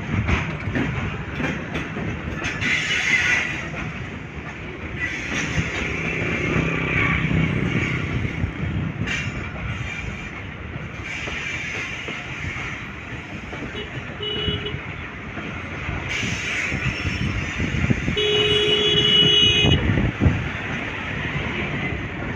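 Train running on the tracks, with a steady rumble and scattered clatter of the wheels. Its horn sounds twice: a short toot about two-thirds of the way in, then a longer blast of about a second and a half near the end.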